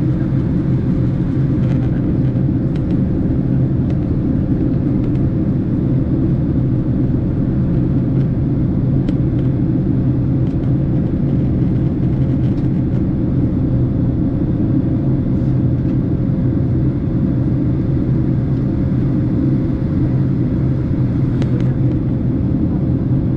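Steady cabin noise inside a Boeing 767 airliner in flight: an even, loud rumble of engines and rushing air with a faint steady hum above it.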